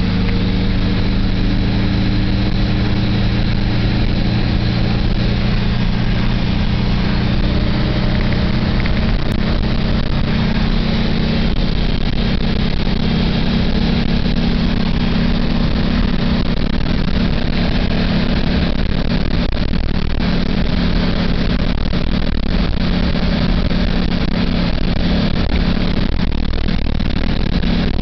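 Volkswagen Brasília's air-cooled flat-four engine running hard at high speed, heard from inside the cabin together with wind and road noise. The engine drone holds steady, its note shifting slightly about eleven seconds in.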